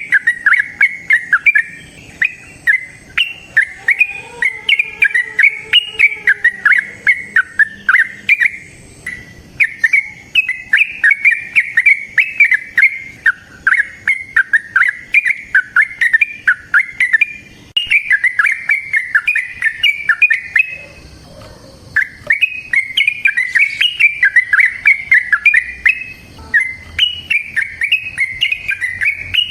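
Yellow-vented bulbul (trucukan) singing its long 'ropel' song: long runs of rapid, bubbling chattering notes, broken by short pauses between phrases.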